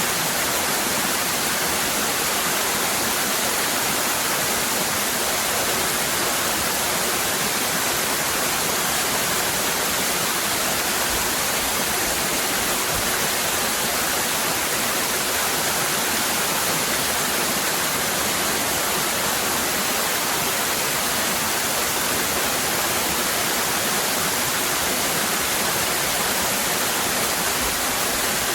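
Waterfall cascading: a steady, unchanging rush of falling water.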